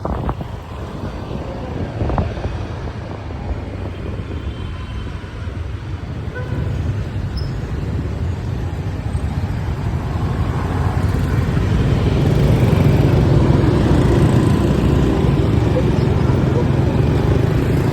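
Riding on a motorbike through city traffic: engine and road noise with wind buffeting the microphone, growing louder after about ten seconds.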